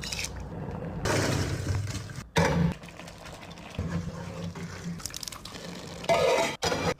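Liquid pouring and splashing in a cooking pot, among irregular clatter of pot and utensils, with a sharper louder spell about two and a half seconds in.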